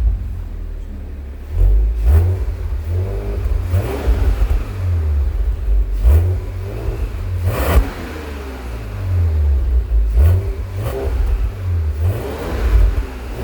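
Audi A7 55 TFSI's turbocharged V6 revved repeatedly through a custom valved exhaust with an aftermarket muffler. The pitch climbs and falls with each blip, and sharp cracks come at several of them.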